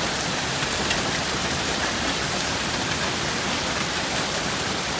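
Steady downpour of rain mixed with small hail, less than dime size, with a few faint ticks of hailstones striking.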